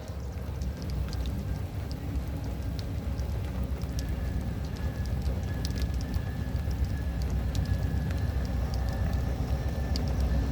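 Heavy rain falling, with scattered drops ticking close by, over a low rumble that slowly grows louder as a passenger train approaches.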